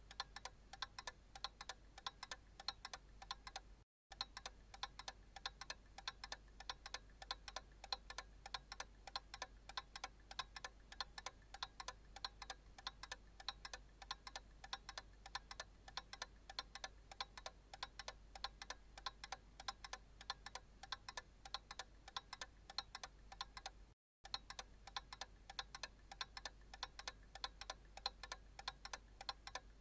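Analog clock ticking steadily, a faint, even run of ticks, with two brief drop-outs to silence.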